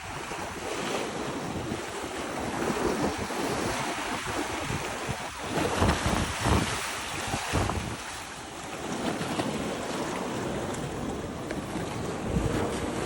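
Ocean waves washing, with wind buffeting the microphone in low rumbles that swell about halfway through.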